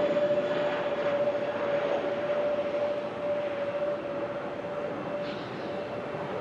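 Aircraft engine noise with a steady whine over a rushing hiss, fading gradually as the aircraft moves away.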